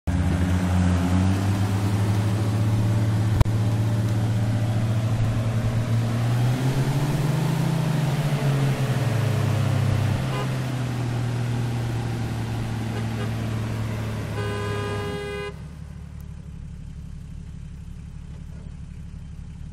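Off-road 4x4's engine running hard, its pitch rising about seven seconds in and dropping back a few seconds later. A horn toots for about a second near the end, after which the engine settles to a quieter, steady low idle.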